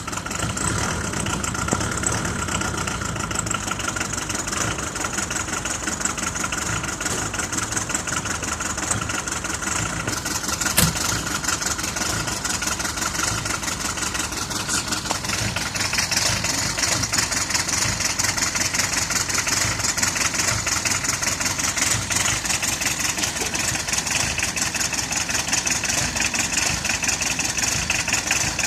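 Citroën BX 1.9 TD four-cylinder turbodiesel idling cold, with one cylinder not firing, which the owner suspects is down to low compression. A single sharp click about eleven seconds in.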